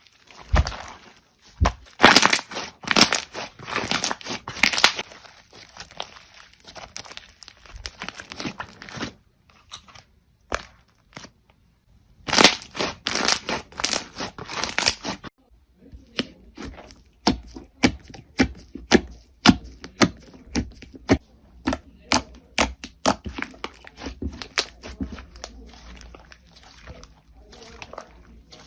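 Crunchy slime being squeezed and pressed by hand, giving dense crackling and popping. The crackling stops for a few seconds about a third of the way in, comes back in a burst, then breaks into a long run of separate sharp pops and clicks.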